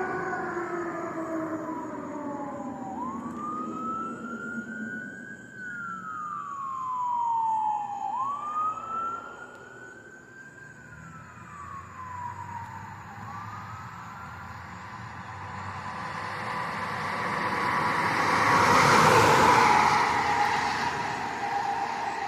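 Emergency vehicle wail siren rising and falling in slow cycles about every five seconds, fading. Near the end a vehicle passes close by, its road and engine noise swelling loudly and then dropping off.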